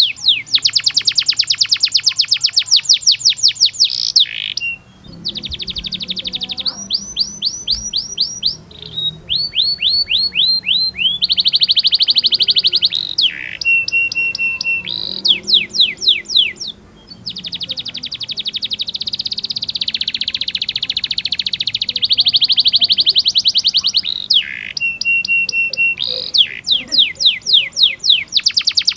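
Domestic canary singing continuously: long fast trills of repeated sweeping notes, changing from one rolled phrase to the next, with a few short steady whistled notes and brief breaks between phrases.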